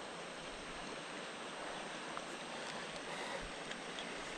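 River water flowing steadily, a continuous rushing hiss with no breaks.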